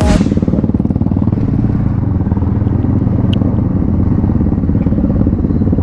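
Motorcycle engine running steadily at low revs, a dense, even low pulsing.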